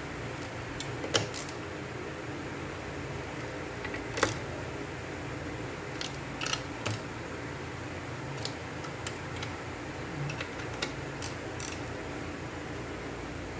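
Scattered light clicks and taps, as of small parts and tools being handled, over a steady fan hum.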